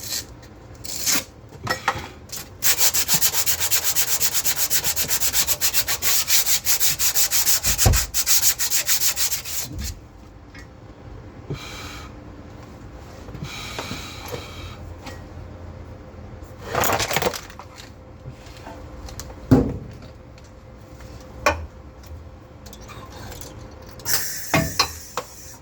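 Electric arc welding on steel: a steady, fast crackling sizzle for about seven seconds starting a few seconds in, then two shorter welding bursts later on, with a few knocks in between.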